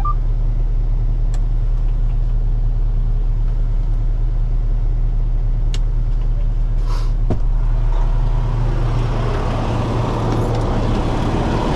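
Heavy diesel truck engine running steadily with a deep hum, a few sharp clicks over it. From about nine seconds in a rougher, louder mid-range noise joins.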